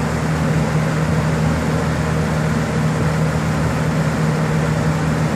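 Household fan running steadily at close range, a constant rush of air over a steady motor hum, blowing through a chilled-water coil as a homemade air conditioner.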